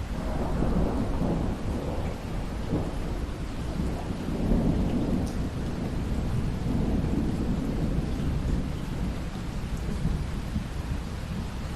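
Rolling thunder over steady rain. The low rumble builds as it begins, swells a few more times and eases off near the end, while the rain hiss carries on underneath.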